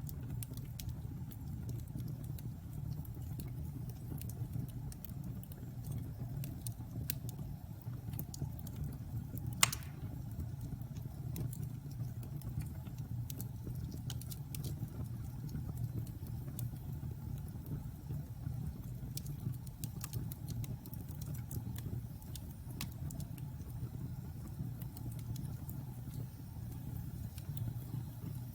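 Wood fire crackling in a fireplace: scattered small ticks and pops over a steady low rumble, with one sharp, much louder pop about ten seconds in.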